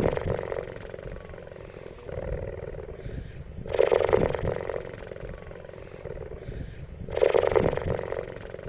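A big cat roaring: three loud, rough, growling roars about three and a half seconds apart, with lower rumbling growls between them.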